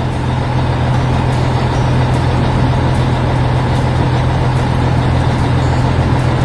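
Tractor engine sound effect running steadily with a low, even drone.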